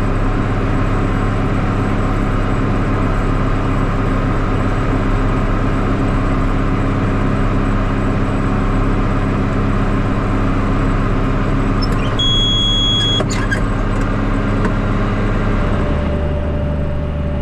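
A vehicle engine running steadily, its low hum changing a little about fifteen seconds in. About twelve seconds in, a single high electronic beep sounds for about a second.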